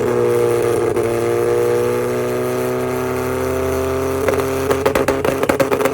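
Acura Integra's four-cylinder engine held on its two-step launch limiter at a steady high pitch. From about four seconds in, rapid crackles and pops from the exhaust join it.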